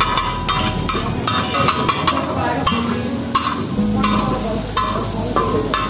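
Food sizzling on a hot griddle while a metal spatula stirs it and strikes the metal, giving sharp, irregular clicks.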